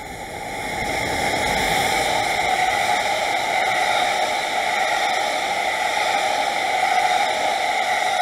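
A train of new H100 diesel railcars being hauled past by an EF510 electric locomotive: steady wheel-on-rail rolling noise that swells in the first second and then holds.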